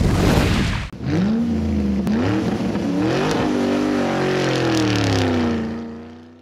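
Car engine revving, its pitch rising and falling several times, after a short loud rush of noise in the first second; it fades out near the end.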